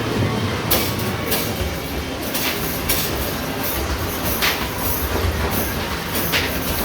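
Basketball arcade machine in play: basketballs rolling down the ball-return ramp with a steady rumble, and sharp knocks every half second to a second as balls hit the backboard and rim.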